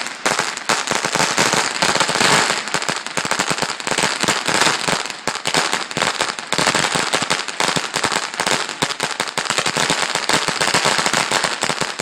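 A long string of firecrackers going off in a dense, continuous run of rapid cracks, dying away at the very end.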